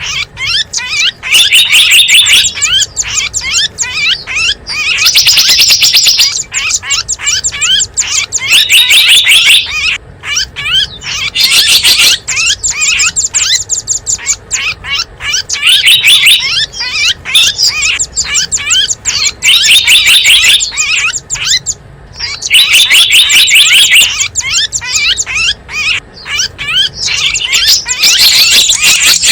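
Small wild songbirds chirping and trilling rapidly and shrilly, in loud bouts of a second or two that keep repeating: a bird-lure (pikat) recording used to draw in small wild birds.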